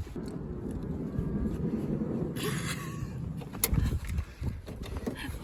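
Strong wind buffeting the microphone as a steady low rumble, with a short rustling hiss about two and a half seconds in.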